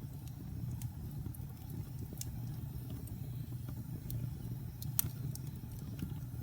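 Wood fire burning in a fireplace: a steady low rumble of the flames with scattered sharp crackles and pops, the loudest about five seconds in.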